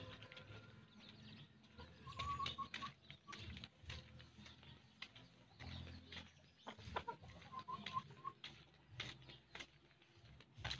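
Faint bird calls: two short runs of four or five quick chirping notes, about two seconds in and again near eight seconds, over low rustling and scattered clicks.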